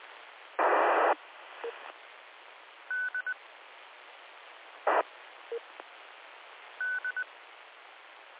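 Two-way radio audio from the W2WCR amateur repeater: steady receiver hiss, broken twice by a short loud burst of static as a station keys up and drops. Each burst is followed by the repeater's courtesy tone, a high beep pattern of one longer beep and two short ones at the same pitch.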